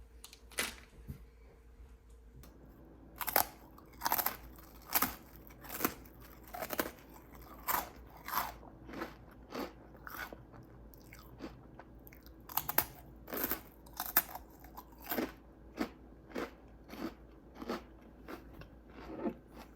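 Close-up chewing and crunching of food, with crisp crunches about once a second from about three seconds in.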